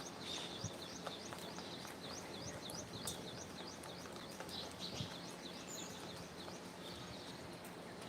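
A bird chirping in a fast, even run of short, high, rising notes, about four a second, that thins out after about five seconds. A few sharp clicks or taps are scattered through it.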